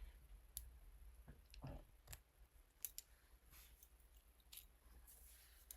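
Near silence with a few faint, scattered clicks and small handling noises.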